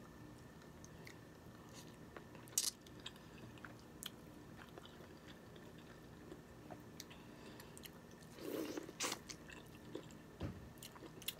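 Quiet close-up chewing of crab meat, with scattered sharp clicks from handling crab shells and corn, and a few louder short bursts near the end.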